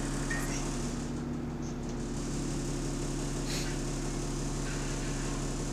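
Diesel bus engine running steadily, a continuous drone with a fast low pulsing underneath and a few faint clicks. The passenger puts the sound down to a big exhaust leak.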